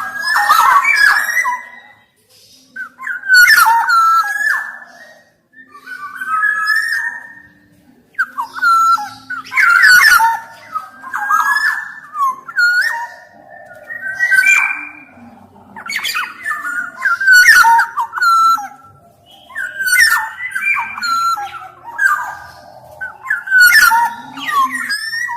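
Black-naped oriole singing in repeated short bursts, each a phrase of fluty, gliding whistles, with brief pauses between phrases about every one to two seconds.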